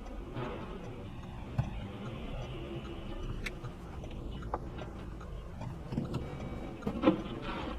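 Steady low vehicle rumble, as heard from inside a moving vehicle, with a few irregular clicks and knocks; the sharpest click comes about seven seconds in.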